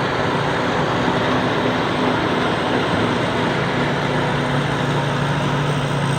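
Rice combine harvester with a Hino diesel engine running steadily: a constant low engine drone over an even rushing noise of the machinery.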